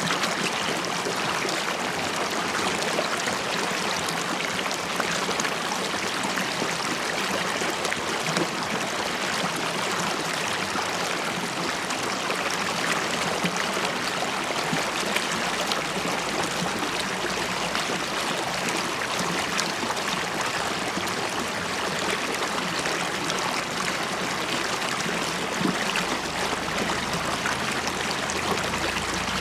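River water flowing and bubbling steadily over stones, a continuous rushing with fine gurgles and splashes.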